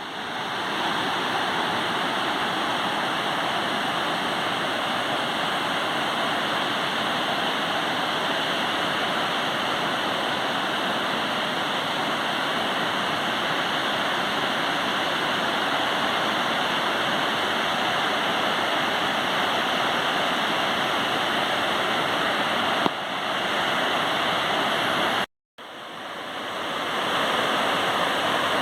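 Waterfall rushing steadily, with a brief cut to silence near the end before it fades back in.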